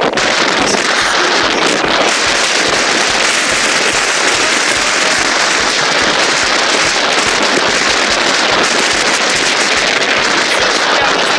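Strong wind: a loud, steady rushing noise with a crackly texture.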